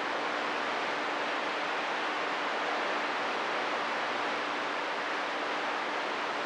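CB radio receiver hissing with steady static on an open channel between transmissions.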